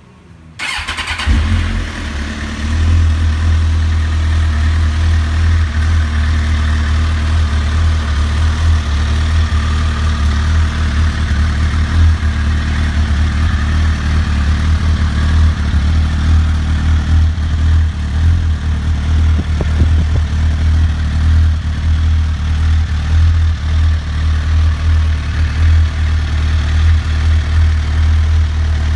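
A 2007 Suzuki GSX-R1000's inline-four engine starts about a second in, then runs at a steady idle.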